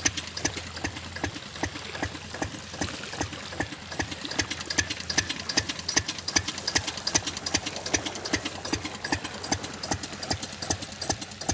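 10 HP Mercury diesel engine running a water pump, with a steady, even diesel knock of several beats a second.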